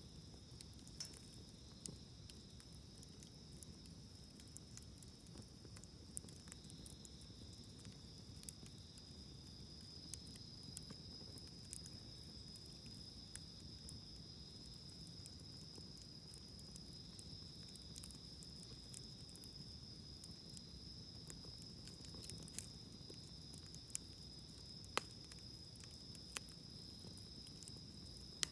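Wood campfire crackling faintly, with scattered sharp pops, the loudest about 25 seconds in, over a steady high trilling of insects at two pitches.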